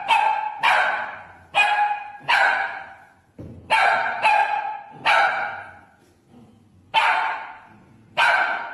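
A dog barking repeatedly: about nine loud single barks at uneven intervals, each trailing off, with a pause of over a second just past the middle.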